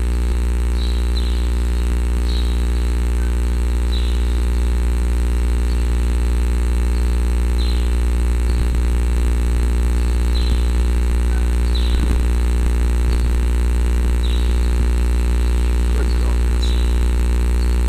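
A loud, steady low machine hum with short, high, falling chirps repeating every second or two.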